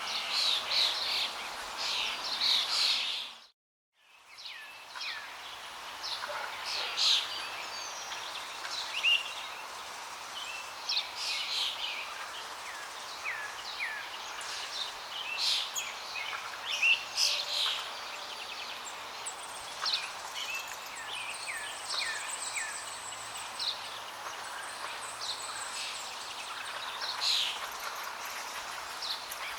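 Many small birds chirping and calling over a steady rush of flowing water. About three seconds in, the whole sound drops out to silence for a moment, then fades back in.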